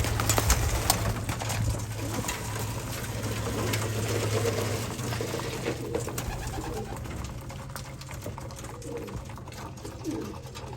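Domestic racing pigeons cooing inside the loft, with scattered sharp clicks and taps mostly in the first couple of seconds and a steady low hum that stops about halfway through.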